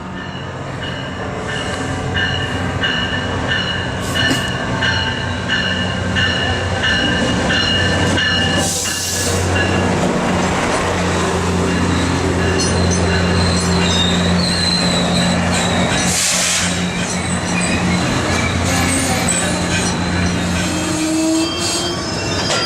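MARC commuter train pulling into a station stop, its brakes squealing in steady high tones, then a low steady hum from the train as it stands. Two short hisses break in about nine and sixteen seconds in.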